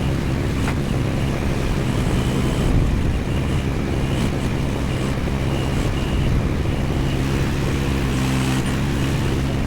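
AGT MX15R mini excavator's engine running steadily at a constant speed.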